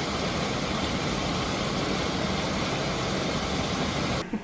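Steady rushing water of the Atysh waterfall, an even noise with no pitch; it stops abruptly near the end.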